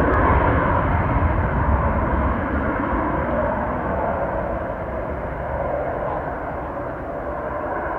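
Military jet fighter, taken by the spotter for a Northrop F-5, departing: a steady rushing jet-engine noise that slowly fades as the aircraft climbs away.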